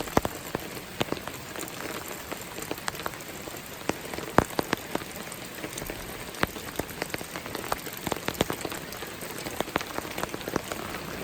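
Steady rain falling, with many individual drops striking sharply at irregular moments.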